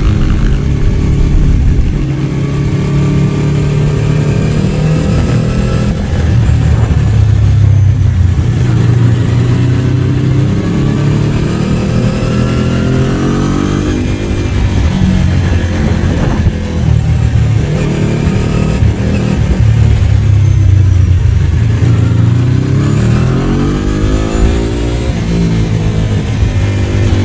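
Ducati 749's L-twin engine running while being ridden, its pitch rising and falling over and over as it accelerates and eases off.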